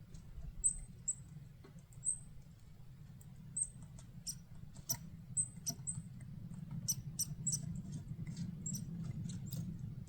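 Chickadees at a feeder: short, very high thin call notes repeated several times, mixed with sharp little clicks and taps. A steady low rumble runs underneath.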